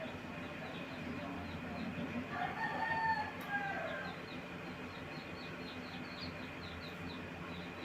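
A rooster crows once, starting about two and a half seconds in and lasting about a second and a half, with a falling end. Faint, high chirps repeat about three times a second throughout.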